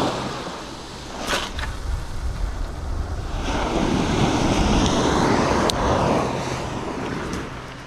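Sea surge washing over shoreline rocks, swelling for a few seconds in the middle and then easing, with wind rumbling on the microphone.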